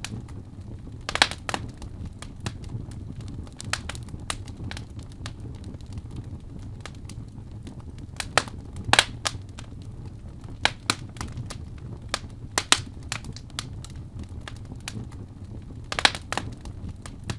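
Fire in a fireplace crackling, with sharp pops at irregular intervals over a low steady rumble. The loudest pops come about a second in, around nine seconds in and near the end.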